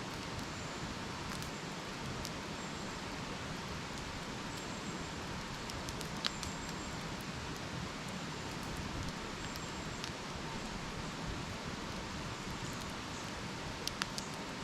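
Wood campfire burning with a steady hiss and scattered small crackles, a sharp pop about six seconds in and two or three more in quick succession near the end.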